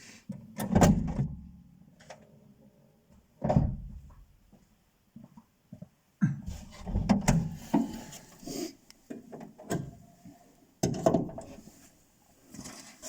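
A VAZ 2115 creaking and knocking: about seven irregular knocks with short creaks between them, the squeak that had seemed to come from the right corner of the dashboard.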